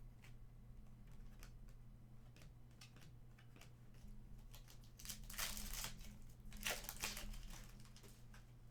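Trading-card pack wrapper being crinkled and torn open in two crackly bursts, the first about five seconds in and the second a second and a half later, with light clicks of cards being handled before them.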